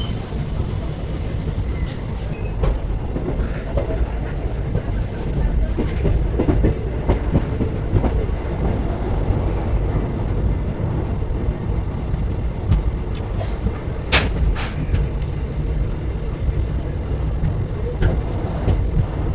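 Indian Railways passenger coach of the Poorna Express running along the track: a steady low rumble with scattered wheel clicks on the rails, and one sharp clack about three-quarters of the way through.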